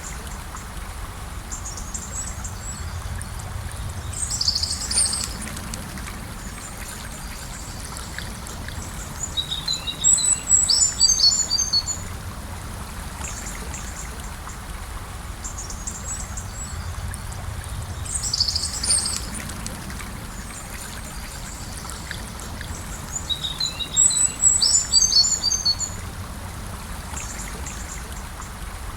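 Gentle river flowing steadily, with birds calling over it: a short call and then a longer chattering phrase, the same pair heard twice.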